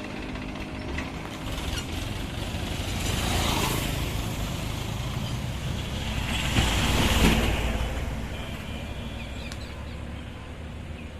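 Road vehicle engines running, the sound swelling as vehicles pass, loudest a little past the middle and then fading.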